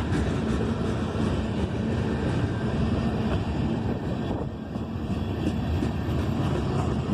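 Freight train rolling past with a steady low rumble and rail noise that dips slightly about four and a half seconds in.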